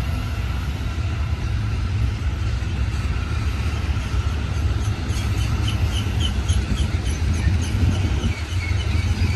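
BNSF double-stack freight train rolling past with a steady, heavy low rumble. In the second half a run of short high-pitched chirps repeats about two to three times a second, dropping slightly in pitch near the end.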